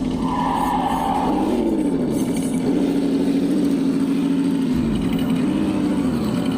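Electric motor and gears of a radio-controlled off-road truck whining, the pitch dipping and rising several times. A brief higher tone sounds for about a second near the start.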